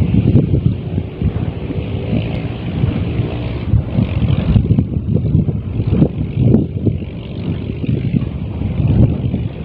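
Strong wind buffeting the microphone: a loud, uneven low rumble that swells and drops in gusts.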